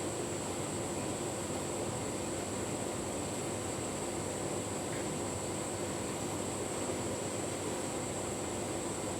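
Tumble dryer running a full load of bedding: a steady whir of the motor and fan with the drum turning, unchanging throughout.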